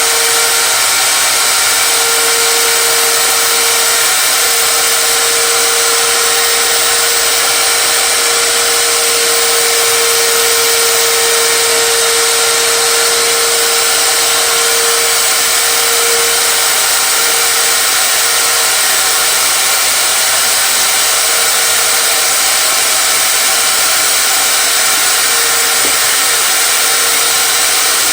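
A power tool's motor running steadily and loudly, a constant whirring with a steady hum that swells and fades a little.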